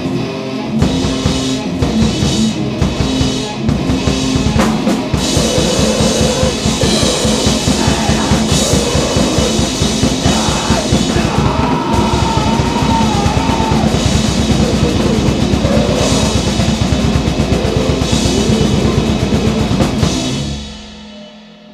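Grindcore/noise band playing loud and distorted, with very fast, dense drumming over a wall of noise. The band stops about twenty seconds in and the sound rings away.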